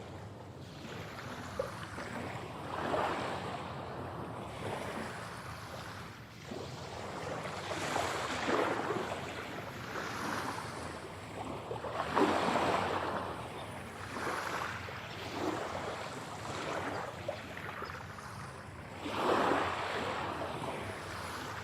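Sea waves washing in and out, in uneven surges every few seconds.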